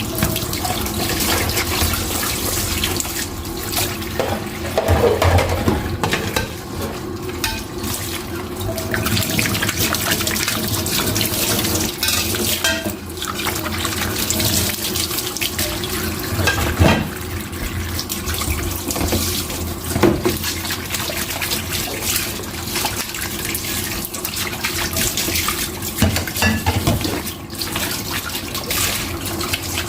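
Running tap water splashing in a kitchen sink during hand dishwashing, with occasional clinks and knocks of dishes.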